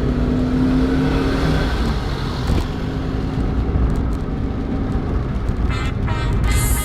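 Motor vehicle running: a low, steady rumble with a hum that fades after about two seconds.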